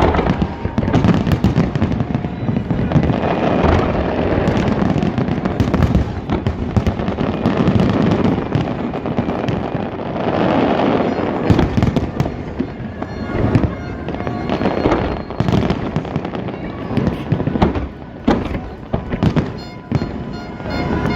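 A large aerial fireworks display: rapid, overlapping shell bursts booming and crackling in a dense barrage. In the last few seconds it thins into separate sharp bangs.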